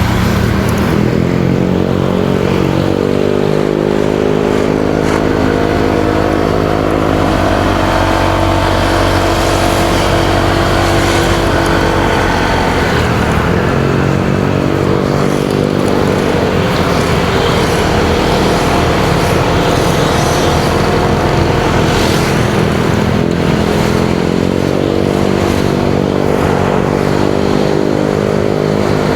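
Motorcycle engine heard from the rider's seat, its pitch rising and falling several times as the rider accelerates and eases off.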